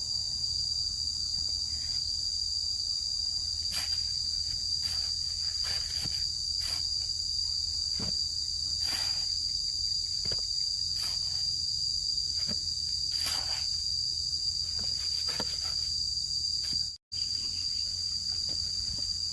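A steady, high-pitched insect chorus, with scattered light knocks and clicks throughout. All sound cuts out for an instant near the end.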